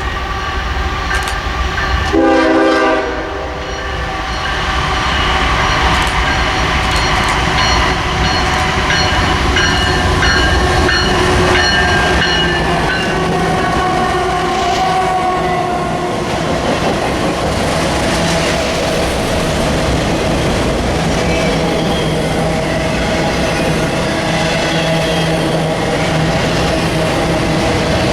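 Train passing: a locomotive horn sounds one short blast about two seconds in, then the train rolls past steadily with wheel and rail noise and high squealing tones.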